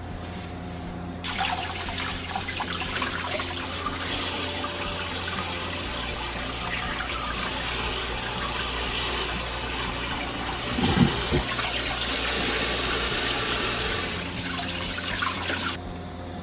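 Water running from a tap into a sink and splashing. It is turned on about a second in and shut off near the end, with a brief knock a little past the middle.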